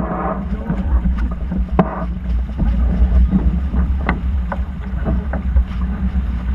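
Wind buffeting the microphone on a sailing yacht under way, with water noise along the hull and scattered sharp knocks and clicks.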